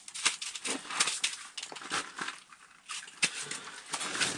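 Irregular crackling clicks and rustles of handling noise, with a short lull a little past halfway.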